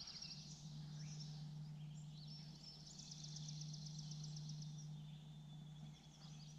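Faint songbird trills: rapid, high, evenly repeated notes, the longest running for about three seconds midway, over a steady low hum.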